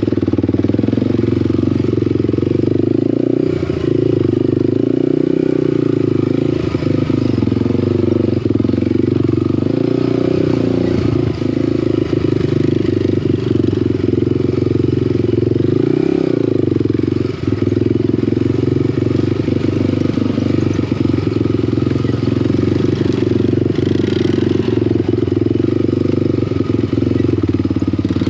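Small off-road engine (ATV or pit bike) running steadily while riding, with scattered clattering knocks from the machine over rough ground.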